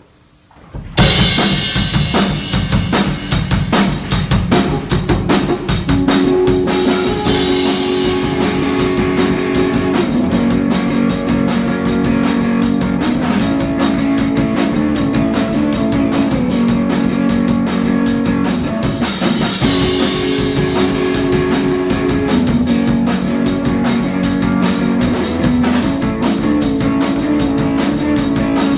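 Live rock band playing: drum kit, guitar and bass start together about a second in and play on steadily.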